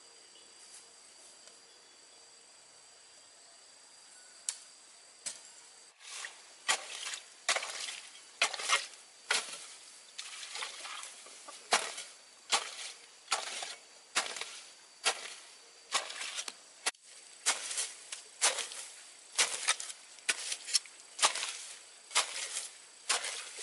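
Regular chopping or striking strokes, each with a short swishing tail, about one every 0.7 seconds, starting about six seconds in. Before them there is only a faint hiss with two steady high-pitched tones.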